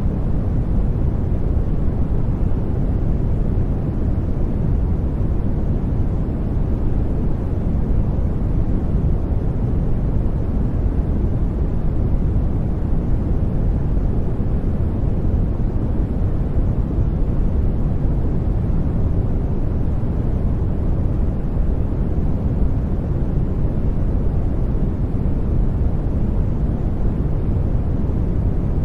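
Brown noise: a steady, deep rumbling hiss, loudest in the bass and fading toward the treble, unchanging throughout.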